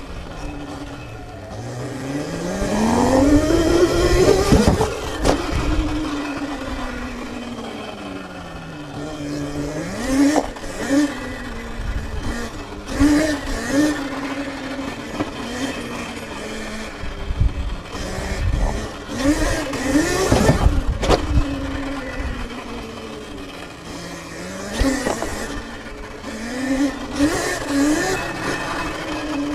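Sur-Ron electric dirt bike's motor whining, rising in pitch as it speeds up and dropping as it slows, over and over. The biggest climb is a few seconds in, with repeated short surges through the middle and near the end.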